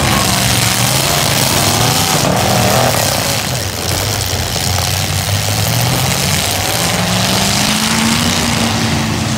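Several V8 demolition derby cars running and revving at once, their engine notes rising and falling.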